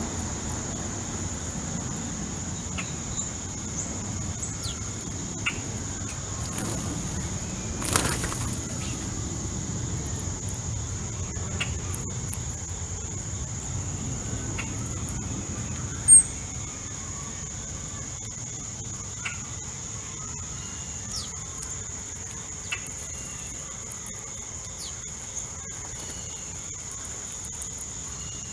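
Backyard bird feeder: scattered short bird chirps and calls over a steady high-pitched insect-like hum, with one sharp, loud chirp-like click about halfway through. A low rumble under the first half fades away.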